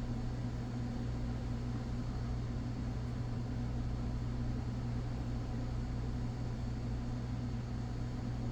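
Steady low electrical hum at an even level, with one strong low tone and a weaker one about an octave above it.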